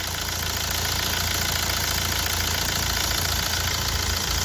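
Hyundai i20 diesel engine idling steadily after its fuel injectors were serviced, running evenly with no misfire and no tak-tak knock.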